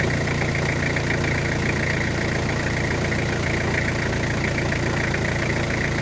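Toyota 5L four-cylinder diesel engine of a 1998 Hilux idling steadily, with a fast, even diesel clatter over a low hum.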